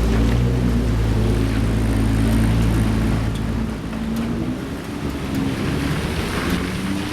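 Supercar engines running at low revs as cars drive off, a deep steady engine note for the first few seconds, then a different engine's note rising near the end.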